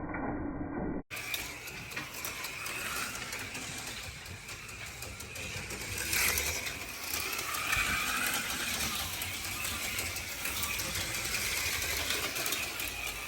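HO-scale slot cars running on a plastic track: small electric motors whirring with a gear-like mechanical rattle. The sound drops out briefly about a second in, then continues clearer and fuller.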